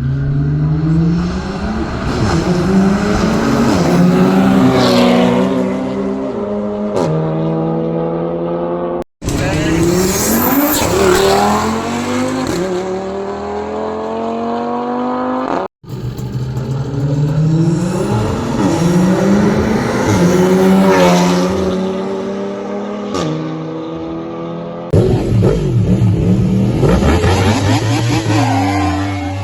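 Car engines accelerating hard, each pitch climbing and dropping back at the gear changes, in several clips joined by abrupt cuts.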